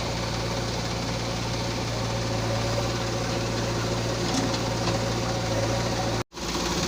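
Heavy diesel engine running steadily at low revs, cut off for a split second about six seconds in before the same running continues.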